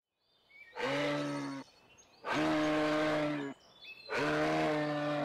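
A moose (Eurasian elk) calling three times: low, steady-pitched moaning calls about a second each, evenly spaced.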